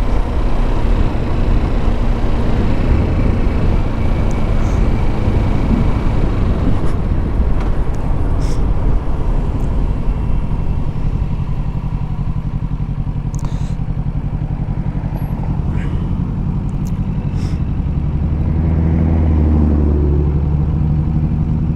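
Kawasaki Ninja 650 parallel-twin engine running under way, mixed with a steady rush of wind and road noise on the rider's microphone. Near the end the engine note becomes a clearer, steadier low hum.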